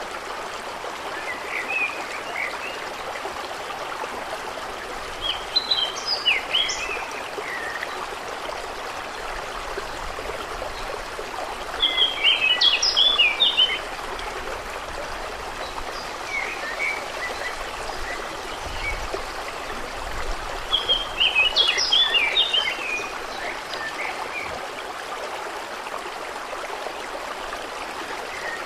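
Water trickling steadily, with a songbird singing three loud, quick twittering phrases spread through, and softer chirps in between.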